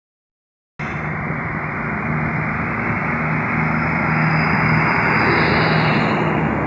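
FCCA 705 diesel locomotive running steadily with a low hum, cutting in suddenly under a second in.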